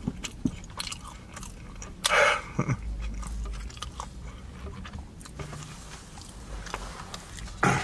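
Close-up mouth sounds of a person chewing and biting into a sushi burrito, with small wet smacks and crunches. A louder noise comes about two seconds in and another near the end.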